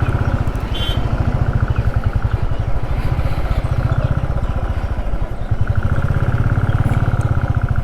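Motorcycle engine running with a steady, even beat; it dips briefly about five seconds in, then runs a little louder.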